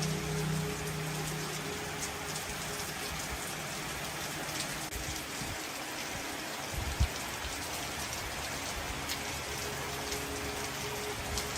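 Steady hissing noise like rain or spray, with a low hum in the first second and a single short knock about seven seconds in.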